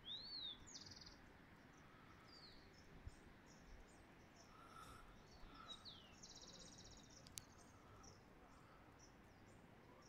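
Birds singing faintly: a few short slurred whistles and two rapid trills, the loudest call right at the start, over a low steady background hiss. A single sharp click comes about seven seconds in.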